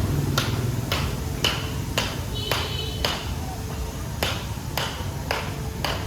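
A steady series of sharp taps, about two a second, some followed by a brief high ring.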